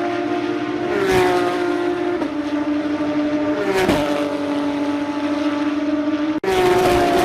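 Porsche GT3 Cup race cars' 3.8-litre naturally aspirated flat-six engines at high revs, a steady engine note with cars passing about one second and four seconds in, each dropping in pitch as it goes by. The sound cuts out for an instant near the end, then another car passes.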